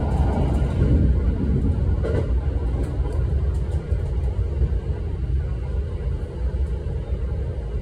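Steady low rumble of a Shinano Railway electric train running at speed, heard from inside the passenger cabin.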